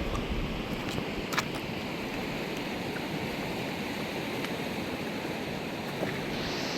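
A fast mountain river rushing steadily, with a single light click about a second and a half in.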